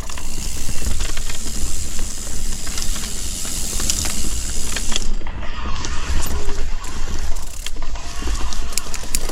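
Mountain bike riding along a dirt trail: tyres rolling and crunching over dirt and stones, with frequent clicks and rattles from the bike and wind rumbling on the camera microphone.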